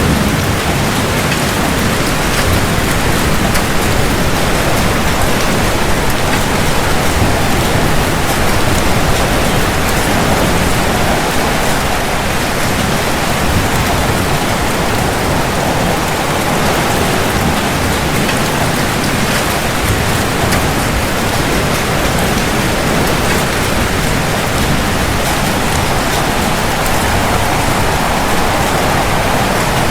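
Steady rain falling at an even, unbroken level. The low rumble of thunder trails away in the first second or so.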